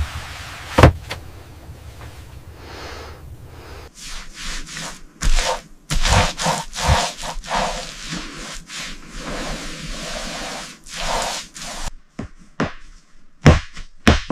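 Hand-work construction sounds: irregular scraping and rubbing strokes, with a sharp knock about a second in and a few sharp knocks near the end. There is a sudden change in sound about 4 seconds in and again about 12 seconds in.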